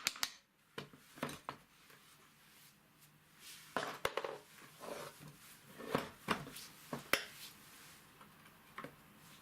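Irregular metal clicks, clinks and short scrapes of steel starter parts and hand tools being handled during the teardown of a BATE truck starter motor, with busier clusters of knocks in the middle.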